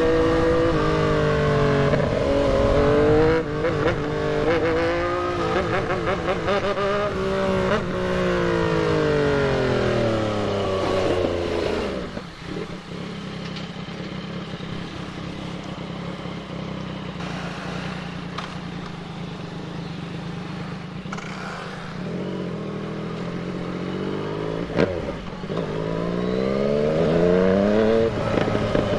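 Yamaha MT-09's three-cylinder engine on the move: revving and shifting through the gears, then falling in pitch as the bike slows, running steadier and quieter for about ten seconds, then revving up again in the last few seconds, with a single sharp click about 25 seconds in.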